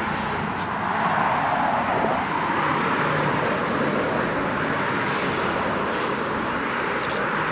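Steady outdoor vehicle and traffic noise, with a faint low hum and no distinct events.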